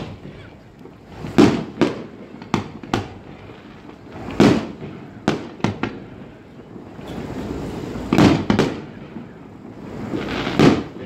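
Aerial fireworks bursting: a string of about ten sharp bangs, several in quick pairs, each trailing off in an echo.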